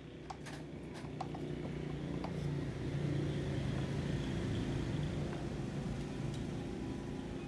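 An engine or motor running steadily with a low hum, growing a little louder over the first few seconds, with a few faint clicks.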